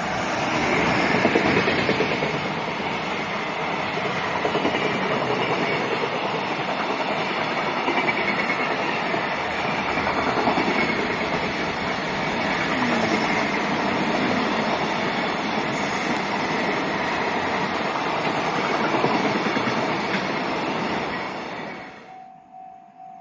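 Container freight train running past, a loud steady rumble of wagons on the rails that drops away sharply near the end. After that, a faint alarm tone pulses about twice a second.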